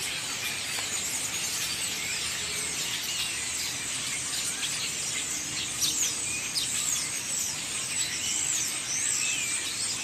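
A large flock of songbirds gathered in a tree, chirping all at once: a dense, steady chorus of many overlapping short high chirps.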